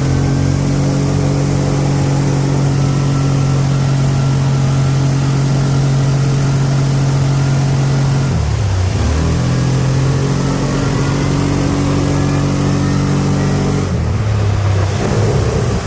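Vehicle engine held at high, steady revs while mudding. The revs dip and climb back about eight and a half seconds in, then drop again near the end.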